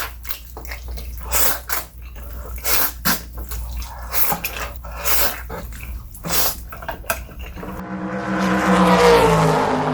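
Close-up eating sounds: wet slurps and crunchy chewing of noodles, coming in irregular short bursts over a low hum. From about eight seconds in, a swelling whoosh with a pitched hum in it takes over and is the loudest part.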